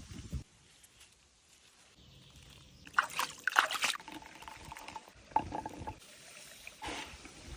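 Water splashing and trickling in irregular bursts, loudest about three to four seconds in, with smaller splashes after.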